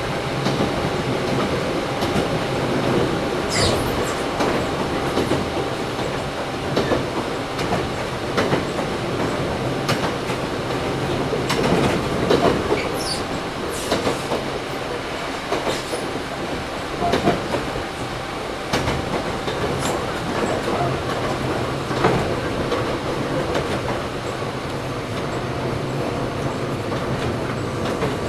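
Interior running noise of a Toyohashi Railway 1800 series (ex-Tokyu 7200 series) resistance-controlled motor car at speed. The wheels click steadily over rail joints, and there are a few brief high wheel squeals, around three seconds in and again around thirteen seconds in.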